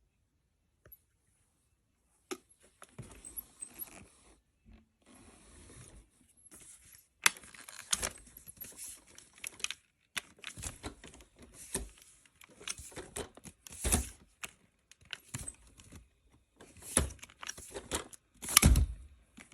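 Handling noises: irregular clicks, taps and crinkling, rustling scrapes, as of plastic parts and material being handled.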